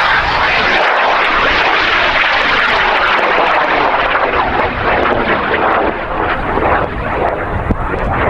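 High-power rocket motor firing at liftoff: a loud, steady rushing noise that slowly thins over the last few seconds.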